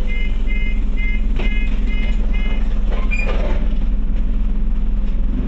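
Scania OmniCity bus engine running steadily, heard from inside the passenger cabin. Over the first two and a half seconds, a series of about six short electronic beeps sounds, roughly two a second.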